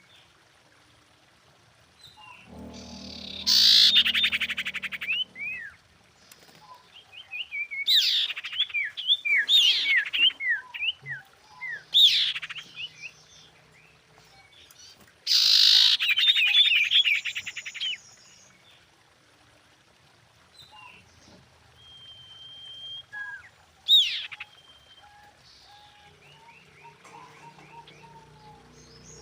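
Female common iora calling: repeated bouts of fast chattering trills and quick whistled notes sweeping up and down, with short pauses between bouts.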